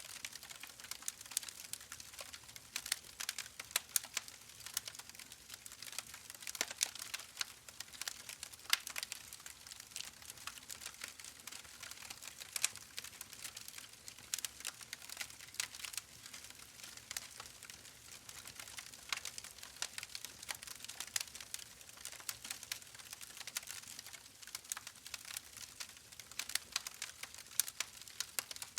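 Campfire burning, wood crackling and popping in quick irregular snaps over a steady hiss.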